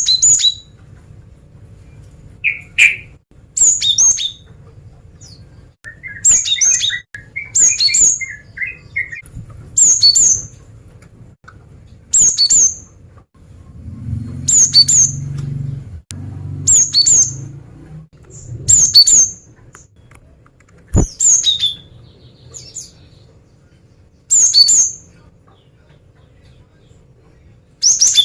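Female cinereous tit (gelatik batu) calling: short, sharp, high-pitched calls repeated about every two seconds, with a brief lower chattering run a few seconds in. This is the calling a female uses to draw males.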